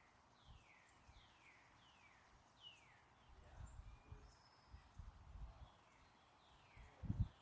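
A bird calling in a run of short, downward-sliding whistled notes, about two a second, pausing in the middle and resuming near the end. Low wind gusts buffet the microphone, the strongest one near the end.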